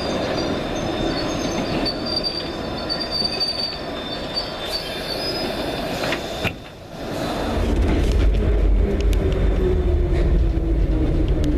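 London Underground District line D78 Stock train running with high-pitched wheel squeal. After a short dip about six seconds in, a heavy low rumble takes over, with a whine that slowly falls in pitch as the train slows.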